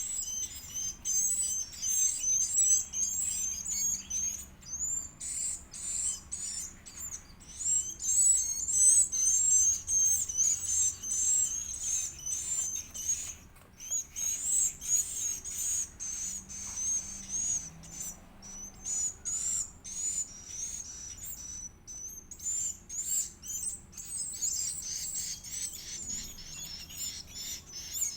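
Edible-nest swiftlet chick calling: a rapid, continuous run of short, high-pitched chirps, typical of a chick begging at feeding.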